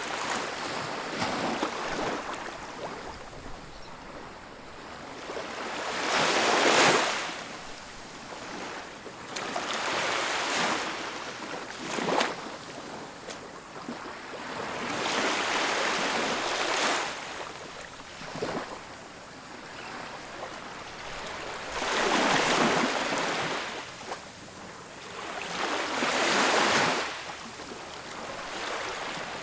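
Ocean surf breaking and washing up on a beach, the rush of water swelling and fading every few seconds, with the loudest break about seven seconds in.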